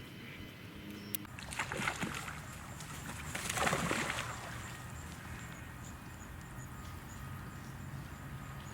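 Water splashing: a short splash about one and a half seconds in, then a longer, louder splash about three and a half seconds in.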